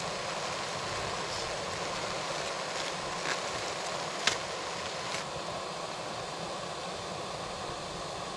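Portable camp gas stove burner running, a steady hiss, with a few small clicks and one sharper click about four seconds in.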